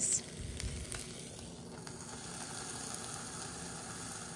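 Chicken breast sizzling on the hot plate of a George Foreman electric contact grill, a steady hiss, with a low bump about half a second in.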